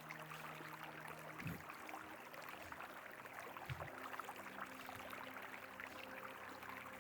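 Faint, steady rush of a flowing river, with two soft low bumps about a second and a half and almost four seconds in.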